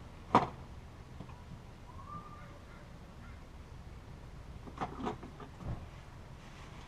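Hand tools on metal during work on the front wheel hub: a sharp metal clank about half a second in, a brief faint squeak, then a few lighter clicks and knocks near the end.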